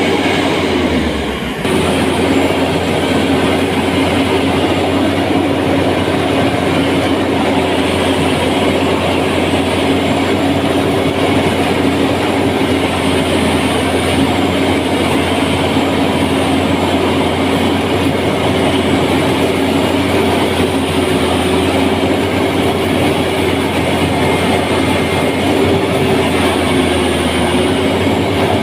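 An engine running steadily under load with a clattering rattle, its hum holding one pitch, with a brief dip in level about a second and a half in.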